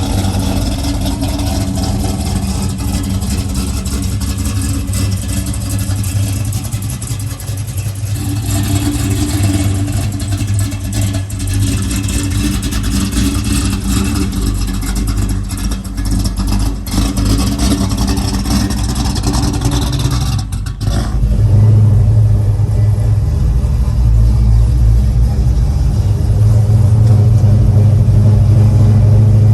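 Oldsmobile Cutlass engine running steadily, with no sharp revving. About two-thirds of the way through it becomes noticeably louder and deeper.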